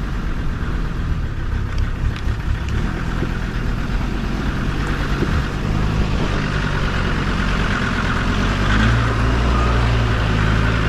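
Off-road 4x4's engine running at low speed in low range, a steady drone that grows a little louder and deeper about eight seconds in.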